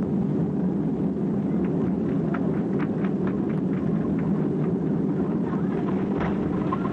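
Steady cabin rumble of a Boeing 767 airliner on its landing approach, engine and airflow noise heard from inside the passenger cabin, with a few faint short sounds over it.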